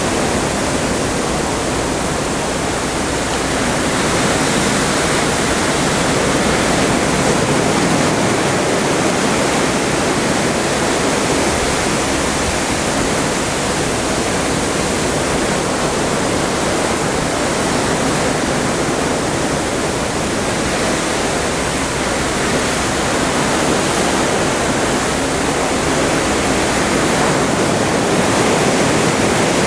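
Atlantic Ocean water rushing along a moving ship: a steady, dense rush of seawater that swells gently and falls back every several seconds.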